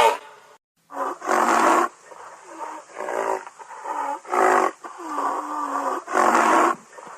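A large animal roaring in a series of about seven short, harsh calls, roughly one a second, the first the loudest.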